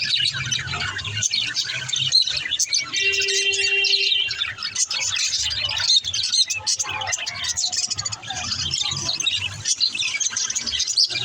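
A group of budgerigars chattering and chirping nonstop in quick, overlapping calls, with one held tone lasting about a second and a half, about three seconds in.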